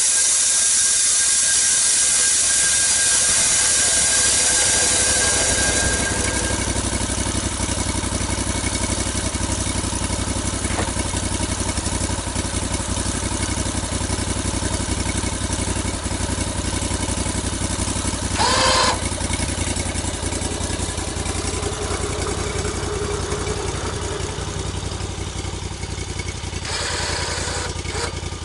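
An engine running steadily, with a loud hiss over it for about the first six seconds that then stops, and a brief squeak about two-thirds of the way through.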